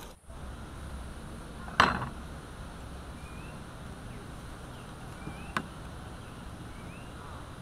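Rural outdoor background with a bird giving short rising chirps about every two seconds, broken by two sharp knocks: a loud one with a brief ringing tail near two seconds in, and a fainter one a few seconds later.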